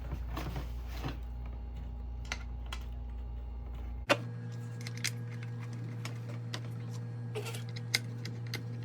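Scattered light clicks and taps of hand tools and small engine parts being handled, over a steady low hum. A sharper click comes about four seconds in, where the hum changes abruptly.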